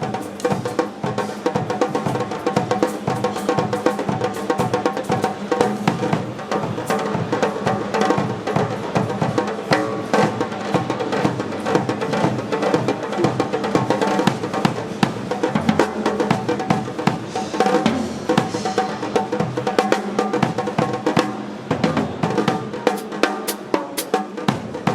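Sonor drum kit played live in a steady groove of bass drum, snare and cymbals. The bass drum drops out briefly near the end.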